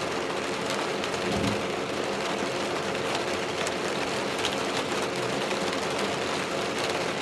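Steady rain falling on a truck camper's roof, with the faint steady hum of a small battery fan underneath.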